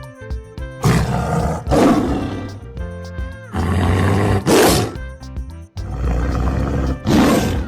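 A big-cat roar sound effect played three times over background music, each roar lasting about a second.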